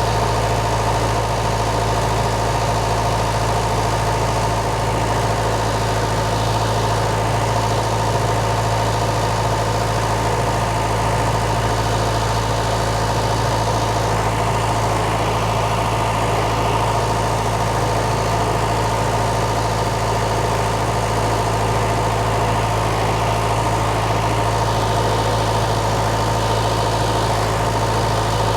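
Case 1840 skid steer's Cummins four-cylinder diesel engine running steadily at an even speed, with no revving.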